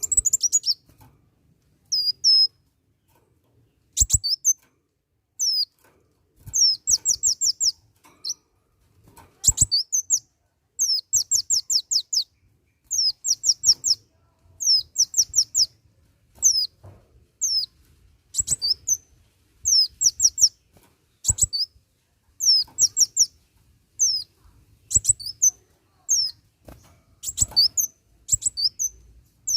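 Kolibri wulung sunbird singing, burst after burst of rapid, high, downward-sweeping chirps, with a few sharp clicks between phrases.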